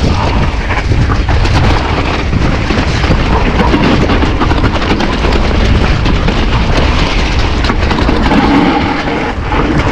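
Wind buffeting a GoPro's microphone during a mountain bike descent, with a constant rumble, plus rapid knocks and rattles from the Nukeproof Giga and its tyres on the wet trail.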